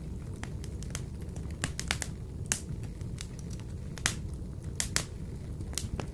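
Wood fire burning in a wood-burner stove: a steady low rush of flame with sharp, irregular crackles and pops, a few louder snaps among them.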